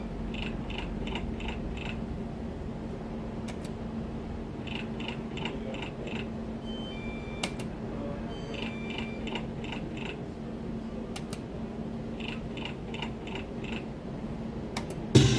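Video slot machine spinning: groups of about five quick electronic blips as the reels stop, repeating every four seconds or so, with occasional single beeps and clicks over a steady electrical hum. A louder burst starts right at the end.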